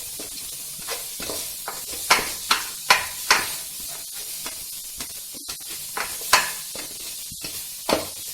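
Chopped vegetables frying in a pan with a steady sizzle while they are stirred, the stirring utensil scraping against the pan in several sharp strokes.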